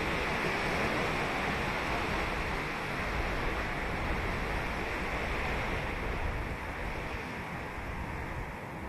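Ocean waves washing onto a sandy beach, a steady rush of surf that eases slightly near the end.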